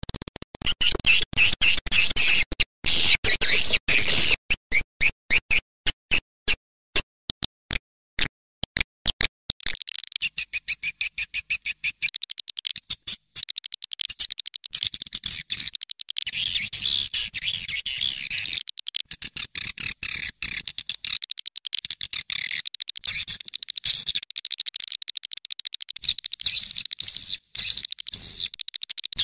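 Swiftlet call-sound recording, the lure played to draw swiftlets into a swiftlet house. Quick, high clicking chirps thin out toward the middle, then turn into dense, continuous twittering from about a third of the way in.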